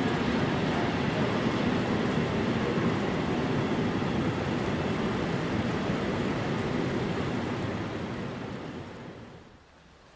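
Train rolling through a railway station: a steady rolling noise that fades away about eight seconds in.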